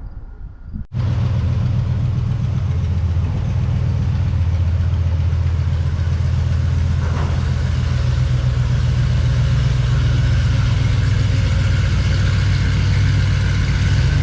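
Squarebody ramp truck's engine running steadily while under way hauling a one-ton truck, with a deep, even drone; it starts abruptly about a second in.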